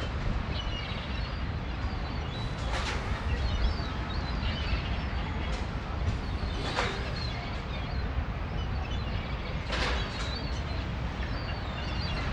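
Wind buffeting the microphone with a steady low rumble, while small birds chirp faintly throughout. Three short, sharper sounds stand out a few seconds apart.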